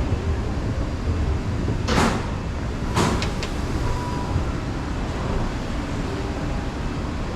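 Steady low rumble of a vehicle, with two short hissing bursts about a second apart, followed by a couple of faint clicks.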